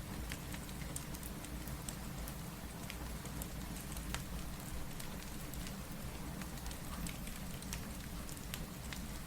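Steady rain mixed with the crackle of a wood fire: an even hiss over a low rumble, with scattered small sharp pops throughout.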